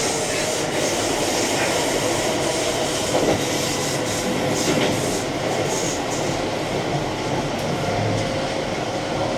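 Keihan electric train running along the line, heard from inside the front car: a steady rumble of wheels on rail with a faint steady whine.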